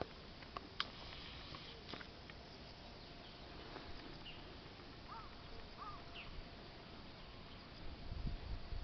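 A pet bird giving a few faint short chirps, two of them arched calls about five and six seconds in, with a few light clicks in the first two seconds. Low rumbling of storm wind builds near the end.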